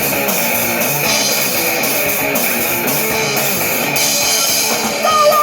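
Live rock band playing loud, with electric guitar and drum kit. A voice comes in near the end.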